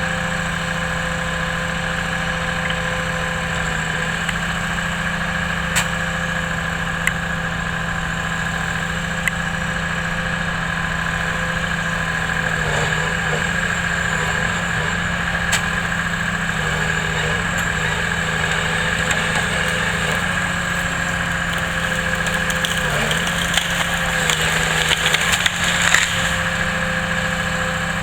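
Engine of logging machinery running at steady speed, its pitch dipping briefly under load twice. Wood cracks and splinters in a run of sharp crackles near the end.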